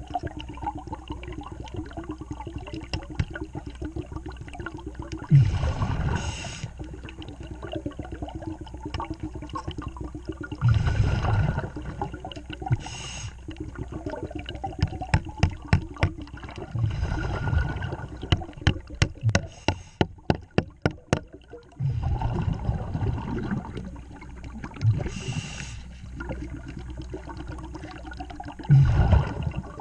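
Underwater scuba diver breathing through a regulator: a gurgling rush of exhaled bubbles about every five to six seconds. In between, a run of sharp clicks or taps comes roughly twice a second for several seconds, partway through.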